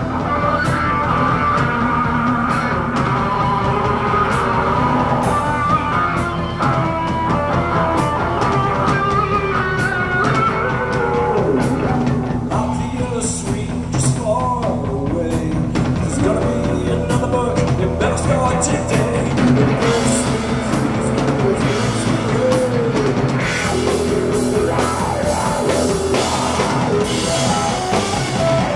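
Live rock band playing: drum kit, electric guitar and bass, with some singing.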